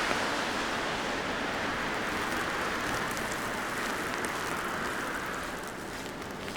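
Traffic hiss from tyres on a wet, slushy city street, a steady rushing noise that eases off a little about five seconds in.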